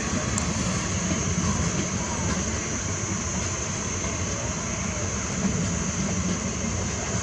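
Train running with a steady low rumble and a constant high hiss above it.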